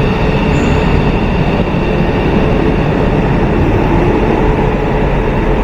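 Whoosh electric high-speed train pulling out of the station: a loud, steady running noise with a steady hum.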